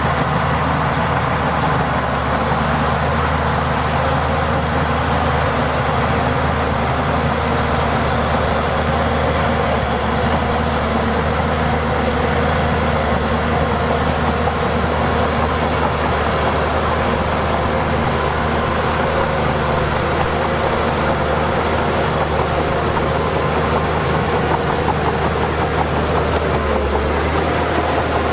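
Heavy diesel earthmoving machinery running steadily, a continuous engine drone with no break.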